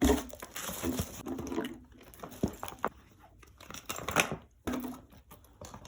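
Items being handled and packed into a bag: scattered rustling, crinkling and small clicks.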